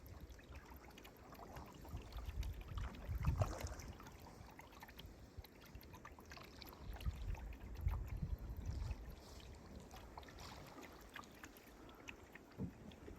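Canoe being paddled: paddle strokes swishing and dripping in the water with small knocks, and a few gusts of low wind rumble on the microphone.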